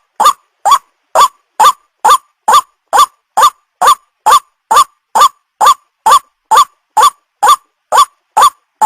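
White-breasted waterhen (ruak-ruak) call played as a bird-lure recording: short, loud, pitched notes repeated at an even pace, a little over two a second.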